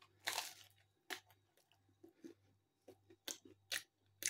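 A person quietly chewing a mouthful of soft, chewy stuffed-crust pizza, with a few short, sharp mouth clicks spread through.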